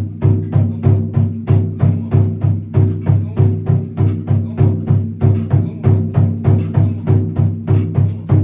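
Japanese festival music: a steady drum beat of about three strokes a second, with wooden clicks and sustained pitched tones over it.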